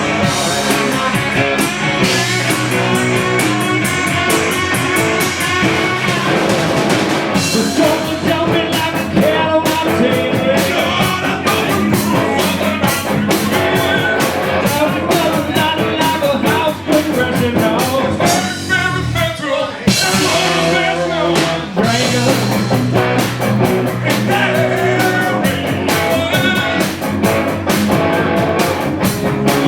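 Rock band playing live: electric guitar and drum kit driving a blues-rock song, with singing.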